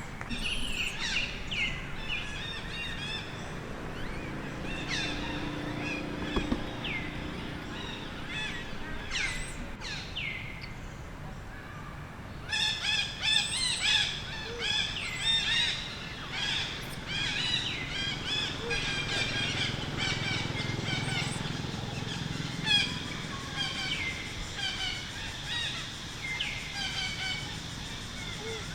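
Many short, high-pitched animal chirps and squeals with a few falling cries, sparse at first and coming thick and fast from about halfway through.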